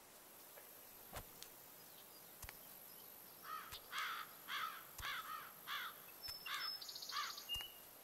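A run of about ten harsh, crow-like caws in quick succession, starting about three and a half seconds in and stopping near the end, over faint outdoor ambience. Faint soft knocks come about every second and a quarter throughout.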